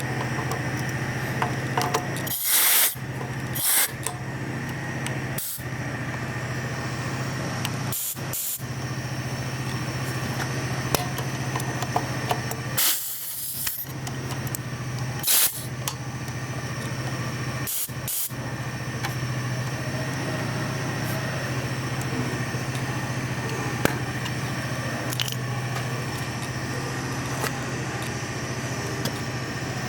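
MAX AK-615PII air compressor running with a steady low hum, broken by several short bursts of compressed-air hiss, mostly in the first twenty seconds.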